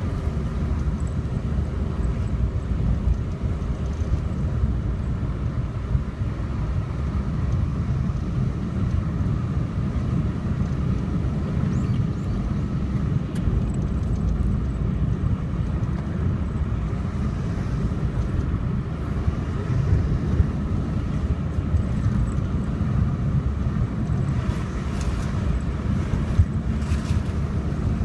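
Car driving on a road: a steady low rumble of engine and tyres.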